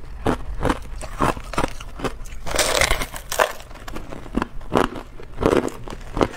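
Hard clear ice being bitten and chewed close to the microphone: a run of sharp crunches, two or three a second, with a longer crackling crush about two and a half seconds in.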